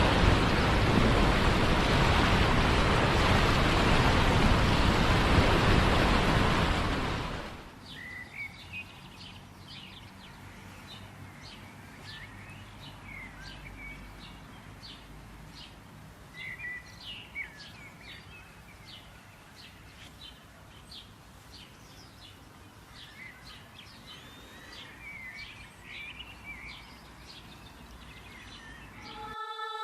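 Steady rush of ocean surf for about the first seven seconds, cutting off abruptly. Many small birds then chirp and call over a faint hiss.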